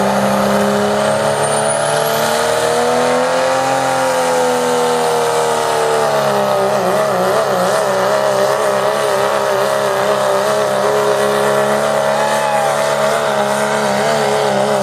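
Modified pulling truck's engine running flat out as it hauls the pulling sled. Its pitch climbs slightly, drops about six seconds in, then wavers rapidly up and down for the rest of the run.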